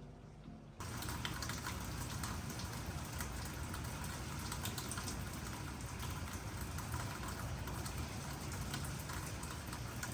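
Rain falling steadily, a dense even patter of drops that starts abruptly about a second in.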